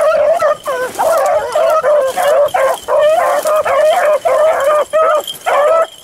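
A pack of beagles baying as they run a rabbit, giving rapid, repeated calls about two to three a second, several voices overlapping.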